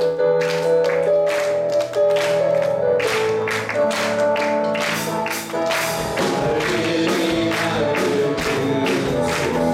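Church praise band playing an upbeat worship song, with sustained instrument notes over a steady, quick beat.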